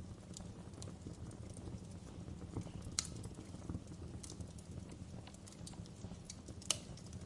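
Wood fire in a fireplace crackling: irregular small snaps over a low steady rumble of the flames, with two louder pops, one about three seconds in and one near the end.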